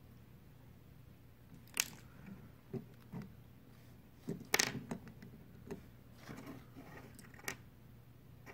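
Toy packaging being handled: scattered faint clicks, crackles and scrapes of plastic and cardboard, with the loudest snaps about two seconds in and again a little past halfway.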